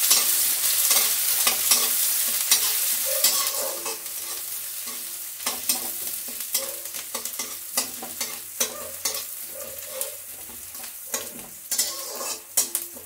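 Chopped onion and garlic sizzling in hot oil in a kadhai, stirred with a metal spatula that scrapes and clicks against the pan. The sizzle is loudest for the first few seconds and then eases off.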